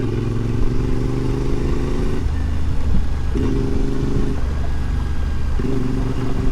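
CFMoto 450MT's parallel-twin engine running while the bike rides along, its note shifting up and down several times with throttle, over a steady low rumble.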